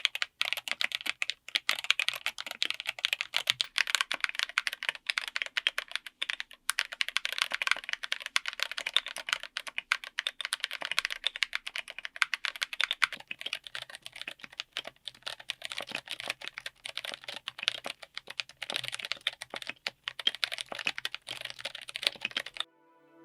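Fast, continuous typing on a mechanical keyboard fitted with tactile switches, a dense run of irregular key clicks that stops abruptly near the end.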